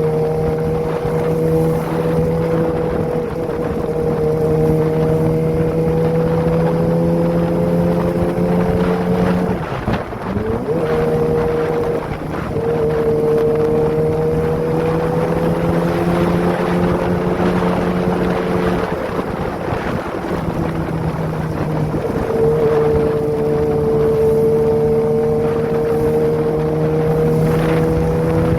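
Kawasaki ZX-25R's 250 cc inline-four engine through a Prospeed aftermarket exhaust, running under way at a fairly steady pitch while being ridden. The note drops briefly and picks up again about ten seconds in and again around twenty seconds in, with wind noise on the microphone.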